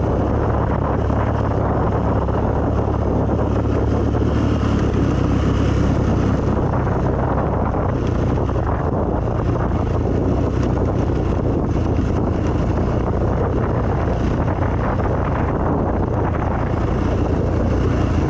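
Off-road vehicle engine running steadily under way, with wind buffeting the microphone.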